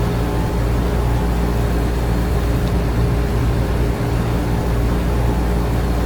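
An air conditioner and electric fans running together: a steady hum of motors and rushing air, with a low drone and a faint constant tone running through it.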